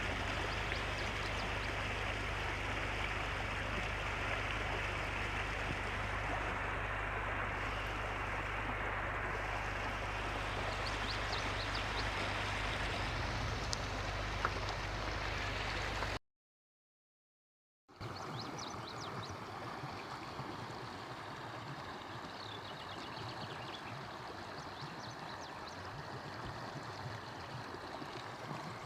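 Steady rushing of a flowing stream, with a few faint high chirps. The sound cuts out completely for about two seconds past the middle, then resumes a little quieter.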